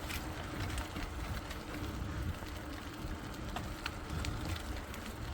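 Riding noise on a phone filming from a moving bicycle: steady wind and tyre rumble, with scattered light ticks and rattles from the bike.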